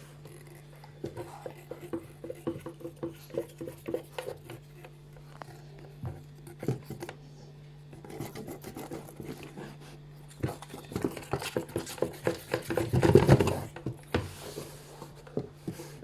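Washing machine running with a steady low hum and a string of knocks and clicks, about two or three a second at first. Later the knocks come thick and fast, with the loudest bump about thirteen seconds in.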